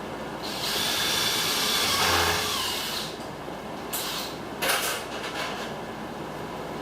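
Tool work on aluminum channel being bent into a rain gutter: a sustained hissing, grinding sound for about two and a half seconds, then a few short scrapes.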